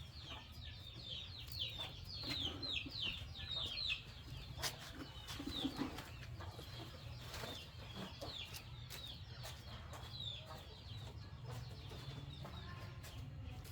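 Birds chirping in quick runs of short, high, falling chirps, thickest in the first few seconds and thinning out later, with a few sharp clicks and a low steady rumble underneath.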